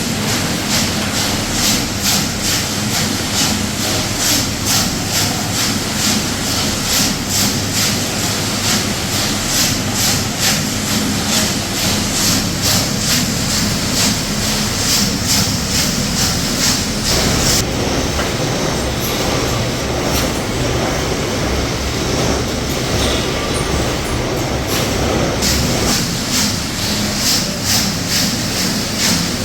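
Metalworking machinery running with a steady rhythmic clatter, about two strokes a second. About halfway through the clatter stops for several seconds while a lower rumble carries on, then the clatter starts again.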